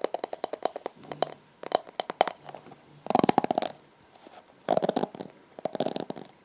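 Hairbrush bristles being scratched and flicked while the brush is cleaned, in quick runs of crackling ticks. The ticks come in short runs with pauses between them, thickening into three dense runs in the second half.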